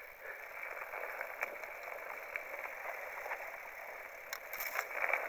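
Mountain bike riding over a rocky trail: tyres crunching over stones and gravel, with scattered clicks and rattles from the bike and a cluster of sharper clicks about four seconds in.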